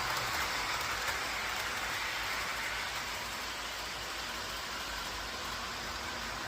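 Train running on the rails, a steady rushing noise that eases slightly about three seconds in.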